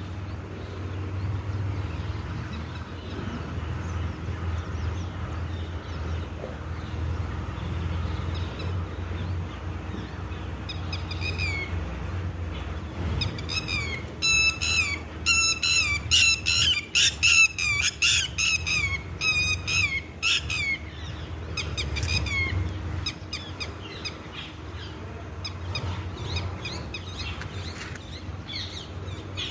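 Birds chirping: many short, quickly falling high calls in rapid series, busiest in the middle of the stretch and thinning out toward the end, over a steady low rumble.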